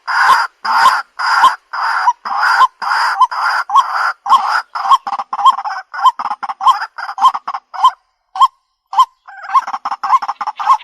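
White-breasted waterhen calls from a bird-lure recording: loud, repeated 'kwak' notes about two a second, quickening into shorter notes, with a short break near the end before the calling starts again.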